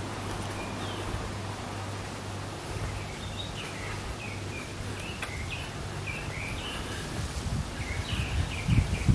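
Outdoor ambience of steady wind-like noise with small birds chirping in short repeated calls from about three seconds in. Low gusts of wind buffet the microphone, growing stronger near the end.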